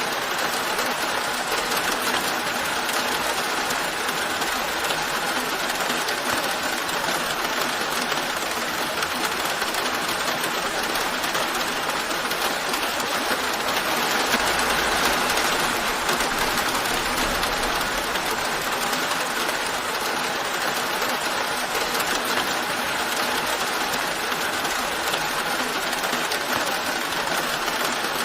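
Steady rain falling, an even hiss that swells slightly about halfway through.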